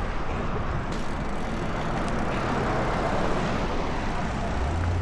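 Steady rushing noise of wind and road while riding a bicycle, swelling a little about three seconds in.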